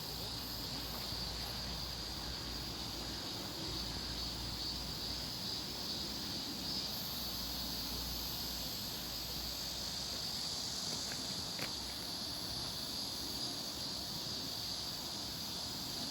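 Steady insect chorus, a continuous high-pitched drone, over an on-and-off low rumble.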